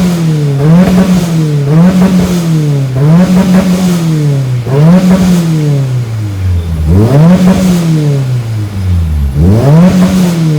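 Turbocharged 4G63 inline-four of a modified Mitsubishi Lancer Evolution VIII MR being revved repeatedly. Five quick blips about a second apart are followed by two longer revs that each climb fast and sink slowly.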